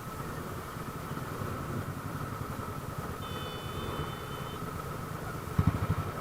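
Motorcycle engine running with a steady rumble. A brief high-pitched tone sounds about three seconds in, and there is a short loud low thump near the end.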